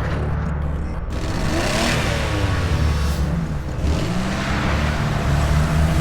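Cartoon car engine sound effect: a steady low engine drone with revving that rises and falls in pitch a couple of times.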